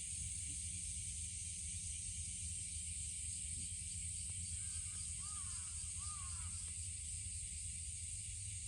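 Steady faint high hiss, with a short run of faint chirping calls about halfway through.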